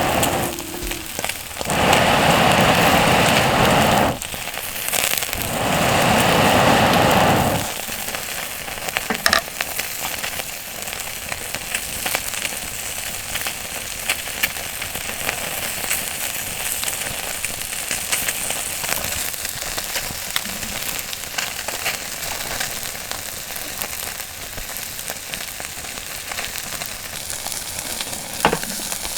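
Campfire crackling and sizzling, with sharp pops scattered through a steady hiss. Within the first eight seconds come two loud rushing noises of about two seconds each.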